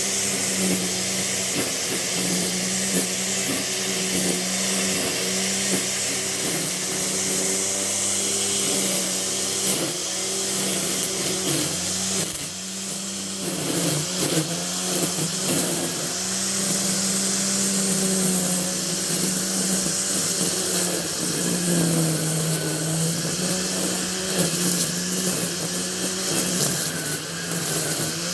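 A small engine or motor running continuously. Its steady hum shifts slightly in pitch now and then, with a dip a little after the middle, over a wide airy hiss.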